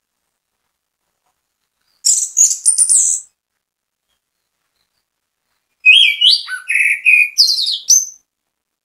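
Orange-headed thrush singing: a short, high, rapid phrase about two seconds in, then a longer, more varied phrase of whistled notes jumping between low and high pitches about six seconds in.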